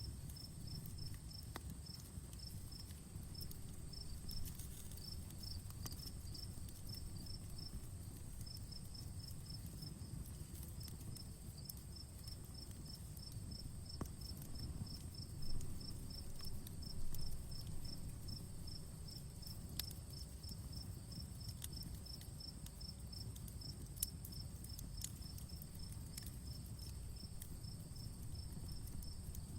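Crickets chirping in a rapid, even rhythm, with a steady high insect drone behind them, over a low rumble. A few sharp pops from a crackling wood fire come through, the loudest about halfway through.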